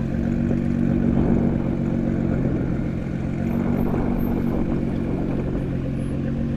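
A car engine idling steadily, swelling slightly louder about a second in.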